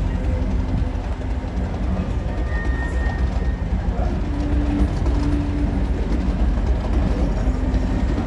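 Train running through the station close by, a steady low rumble of engine and wheels on the track.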